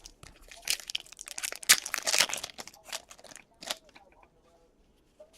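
Irregular crinkling and tearing of a trading-card pack wrapper handled by hand, in a flurry of crackles that is densest about two seconds in and dies away after about four seconds.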